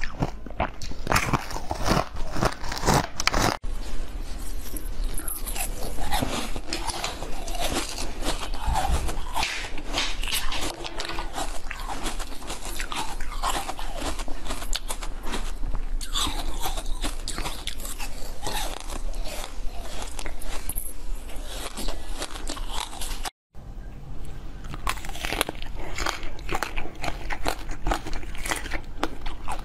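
Close-miked eating sounds: a person biting and chewing crunchy, brittle sweets, with dense crisp crunches throughout. The sound character changes abruptly about four seconds in and again with a brief dropout just after two-thirds of the way through, as separate recordings are cut together.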